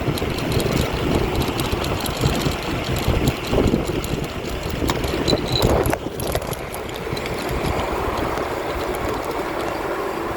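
Wind rushing over the microphone with tyre noise on the road while riding an electric bike, gusty at first and settling to a steadier rush about six seconds in.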